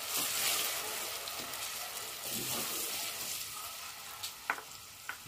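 Blended fresh pepper sizzling in hot palm oil while a wooden spoon stirs it through the pot. The hiss is loudest in about the first second, and a few short clicks come near the end.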